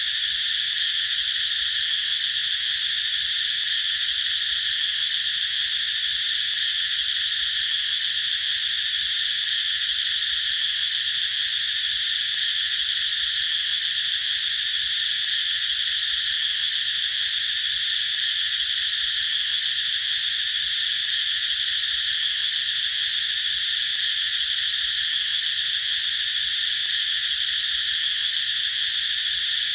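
Cicadas singing in chorus: a loud, steady, high-pitched drone that holds without a break.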